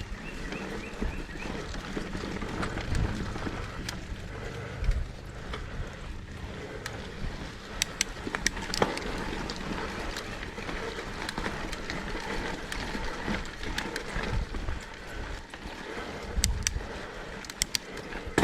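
Mountain bike rolling down a dirt trail: steady tyre and wind noise on the microphone, with a few sharp clatters from the bike over bumps, a cluster about eight seconds in and another near the end.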